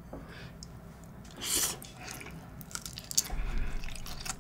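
Close-miked chewing of a king prawn nigiri sushi, with soft wet mouth sounds. There is a brief louder hiss about a second and a half in, then irregular small smacks and clicks through the last second and a half.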